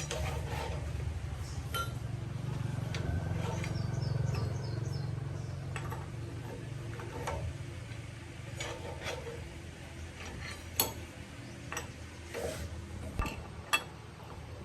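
Metal tools and engine parts clinking and tapping during diesel engine repair work, with sharper clinks in the second half over a steady low rumble.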